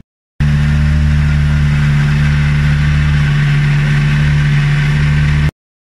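Hyundai i20 R5 rally car's 1.6-litre turbocharged four-cylinder engine running loudly at a steady, unchanging engine speed. It cuts in abruptly a moment in and cuts off just as suddenly shortly before the end.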